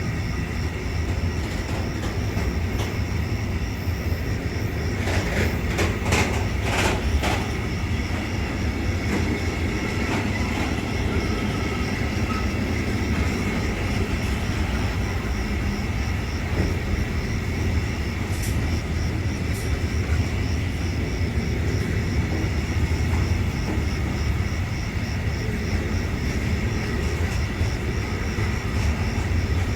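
Train running through the station: a steady low rumble, with a cluster of sharp wheel clicks about five to seven seconds in.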